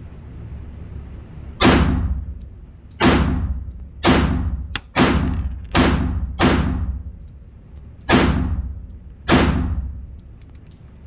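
Eight gunshots fired at an uneven pace, each ringing out and fading over most of a second, with longer gaps between the sixth, seventh and eighth.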